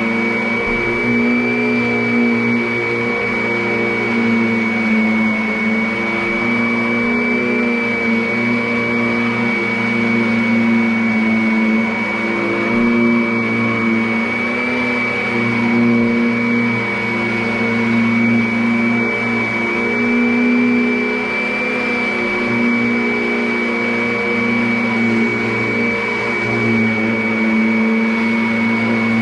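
Vacuum cleaner running steadily, its motor giving a constant hum with a thin high whine on top.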